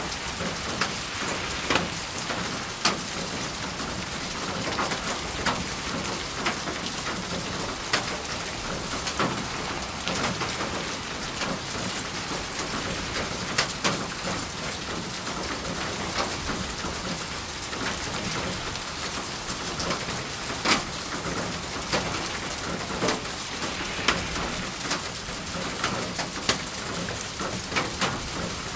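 Steady rain falling on a surface, with a dense hiss and many distinct drops tapping and splattering.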